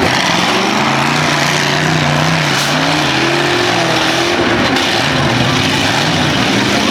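Several demolition-derby truck engines revving at once over a dense steady din. The engine pitch rises and falls repeatedly, with one long rise and fall in the middle.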